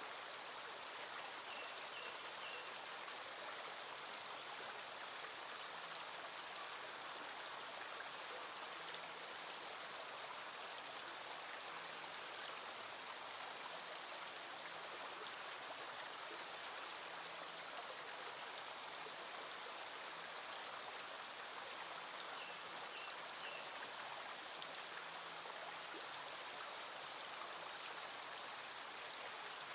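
Small stream flowing with a steady, even rushing, with rain falling.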